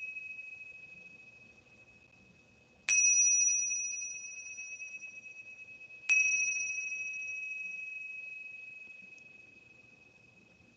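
Small meditation bell struck twice, about three seconds apart, each strike ringing one clear high tone that dies away slowly; the last of an earlier strike fades out at the start.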